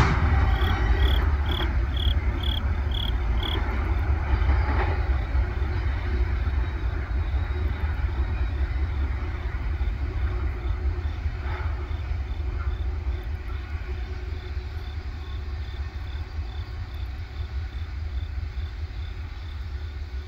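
Double-stack intermodal freight train rumbling low as it pulls away, fading steadily into the distance. Insects chirp high and regularly over it, about two chirps a second, clearest in the first few seconds.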